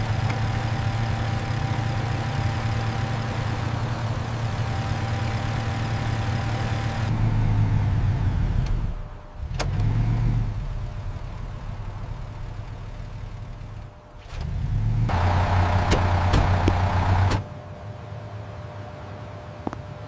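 Car engine running as a vehicle drives, a steady low hum that swells and dips several times, loudest a little after fifteen seconds in, then drops to a quieter background near the end, with a few sharp clicks.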